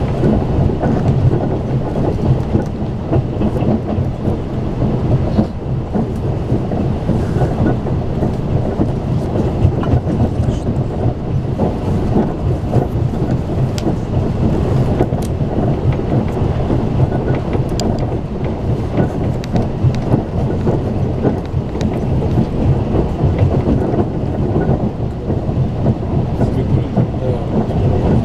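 Steady low rumble of a Talgo passenger car running at speed, heard from inside the carriage: wheels running on the rails, with faint scattered ticks.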